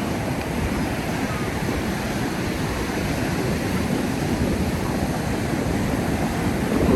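Ocean surf washing onto a sandy beach, a steady rush of waves.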